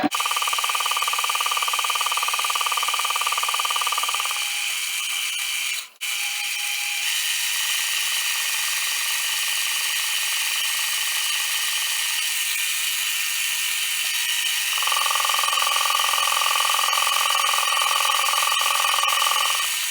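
Metal-working lathe running with a steady whine of motor and gears while turning a slight radius on a metal part. The sound drops out briefly about six seconds in.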